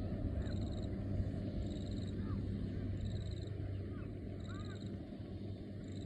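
Birds calling in open farmland: a short, high trilled call repeats about every second and a half, with a few scattered chirps, over a steady low hum.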